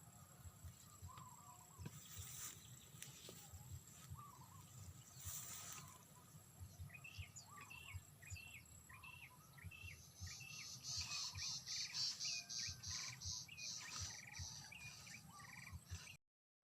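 Outdoor ambience with a bird calling over and over, about two short calls a second, from about seven seconds in. From about ten seconds a faster, higher-pitched pulsing call joins it, and the sound cuts out suddenly near the end.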